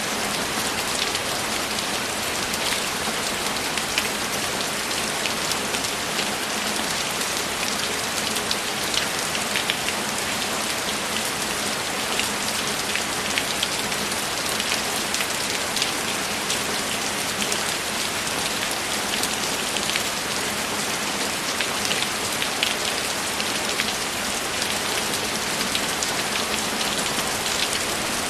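Steady rainfall: an even hiss of rain with many small drop ticks, running unbroken throughout.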